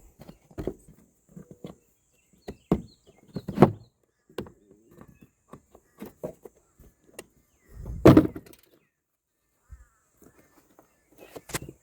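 Plastic engine air filter housing and filter being handled: scattered knocks and rustling, with one loud thump about eight seconds in and a sharp knock near the end.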